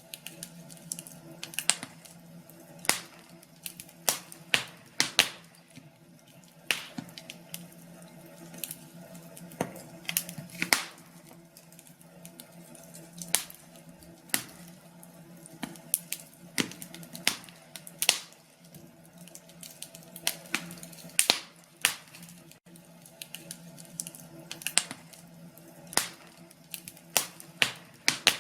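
Wood fire crackling: irregular sharp pops and snaps, one every second or two, over a faint steady low hum.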